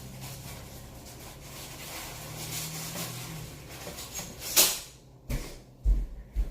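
Handling noises: a steady low hum, then a brief loud rustle about four and a half seconds in, followed by three low thumps near the end.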